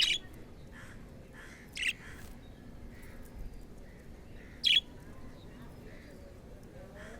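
Budgerigars chirping: three short, sharp, high calls, one right at the start, one about two seconds in and one near five seconds in, over soft, quieter chattering.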